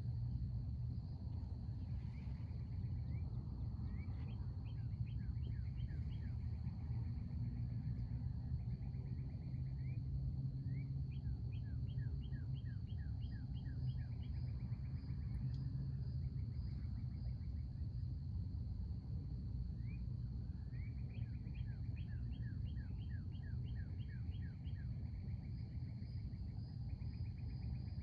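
A songbird sings three phrases of rapid repeated notes over a steady insect drone, with a constant low rumble of outdoor background noise underneath.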